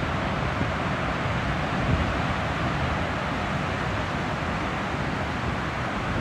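Wind blowing hard over the microphone: a steady rushing noise with low rumbling buffets.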